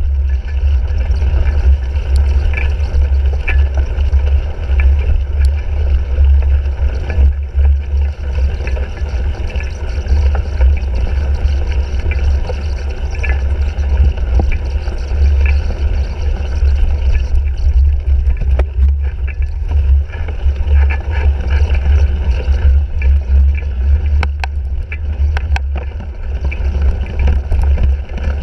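Wind and motion noise on a bike-mounted GoPro Hero 3 while a cyclocross bike is raced: a loud, steady low rumble that swells and dips, with scattered clicks and rattles, more of them late on.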